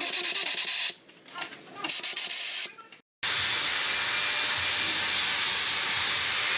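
Pressurised spray hissing: two short bursts in the first three seconds, then a steady continuous hiss with a faint high whine over it.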